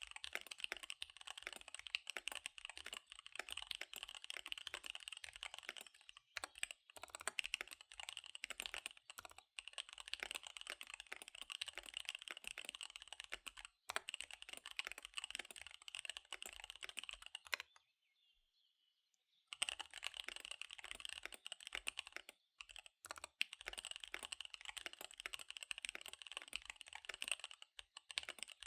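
Fast typing on a KBD75 V3 mechanical keyboard with SP-Star Dark Magic Girl tactile switches and DSA keycaps: a dense, continuous run of key clacks. The typing breaks off a few times, once for about a second and a half a little past the middle.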